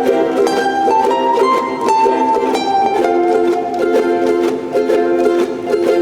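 Ensemble of ukuleles playing a Hawaiian song, a strummed accompaniment under a plucked melody line.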